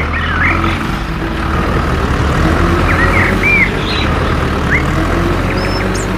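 Steady low motor drone, with birds chirping over it several times.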